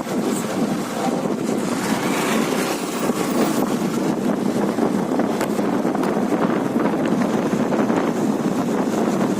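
Steady wind rushing over the microphone of a moving motorcycle rider, a constant rough noise with no breaks.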